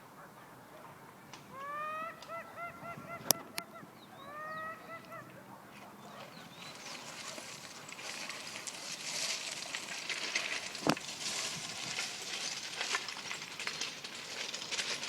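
Two runs of quick, repeated honking calls from an animal, like a goose, early on. They are followed by a steady rushing, crackling noise that grows louder, with two sharp knocks.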